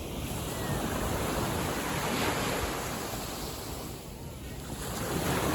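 Gentle sea waves washing in and drawing back, the surge swelling and easing over a few seconds.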